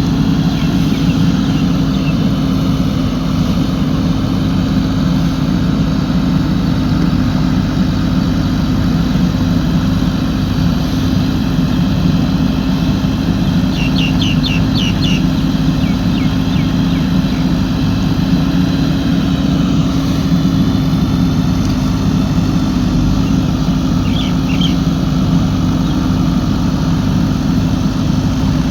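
Diesel engine of a JCB 3DX backhoe loader running steadily at a constant pitch. Short bird chirps come in about halfway through and again near the end.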